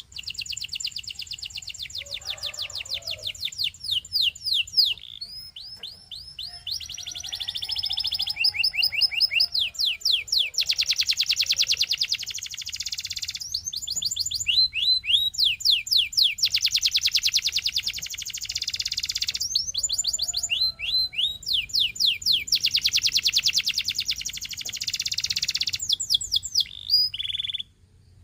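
A Belgian singing canary in full song: long runs of fast repeated high notes and rolling trills, the phrase changing every second or two, stopping abruptly near the end.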